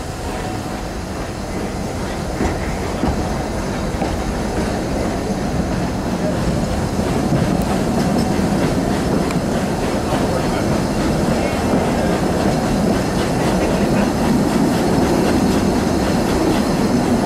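3 ft narrow-gauge steam train running on the rails, heard from an open carriage window, with the wheels knocking over the track. The noise grows louder as the train gathers speed away from the station.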